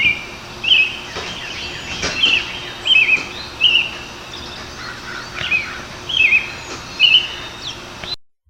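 American robin singing: a steady run of short, slurred whistled phrases in groups of two or three, with brief pauses between them, over a faint steady background hum.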